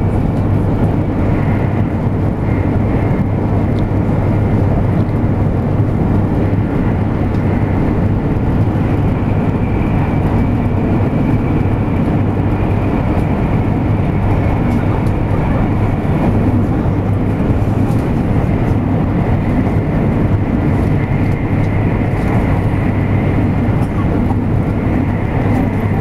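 Running noise heard inside the passenger cabin of a 200 Series Shinkansen train: a steady deep rumble from the wheels and track, with a faint high whine over it.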